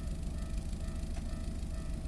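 Steady low road and drivetrain rumble inside the cabin of a moving Subaru Legacy BH5 wagon, with one faint sharp tick a little past a second in.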